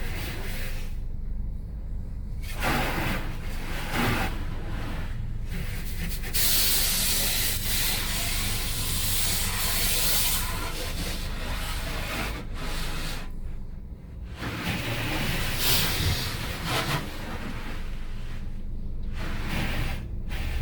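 Automatic car wash machinery running: water spraying with a loud hiss, strongest from about six to ten seconds in, and brushes or jets working over the car, above a steady low machine hum.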